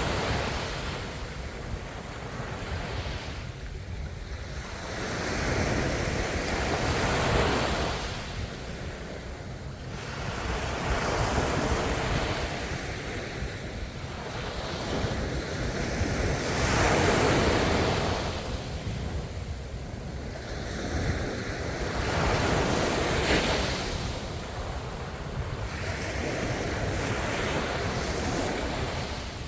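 Ocean waves breaking and washing onto the shore, the surf swelling and falling back every four to six seconds over a steady low rumble.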